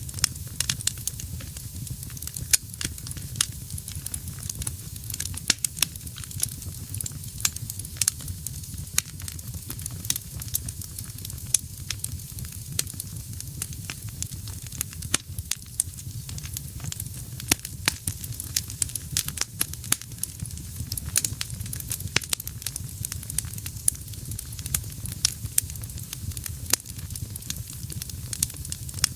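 Wood fire in a fireplace, crackling steadily: many sharp, irregular pops over a low steady rumble of flame.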